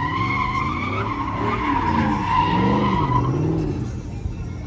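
Tyres squealing steadily as a vehicle spins them, with its engine revving up and down; the squeal fades out about three seconds in.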